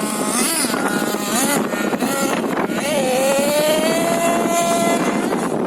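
Nitro engine of a Hobao Hyper MT RC monster truck (LRP ZR.28 Spec 4) revving up and down, then holding a high whine that climbs slowly before it drops away near the end.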